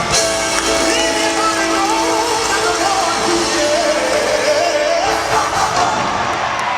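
Large gospel choir singing sustained chords with a wavering solo line over them, with instrumental accompaniment.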